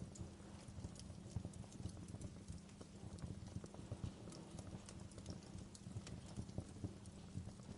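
Fireplace crackling: irregular sharp snaps and pops over a low, steady rumble.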